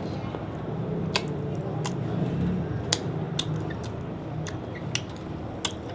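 Someone chewing crispy fried squid rings, with about seven sharp crunches spread over a few seconds above a low steady background hum.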